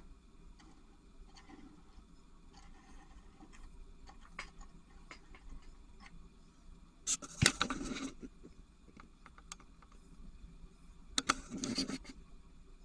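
Quiet handling noise: scattered faint clicks, with two short bursts of rustling clatter about seven and eleven seconds in.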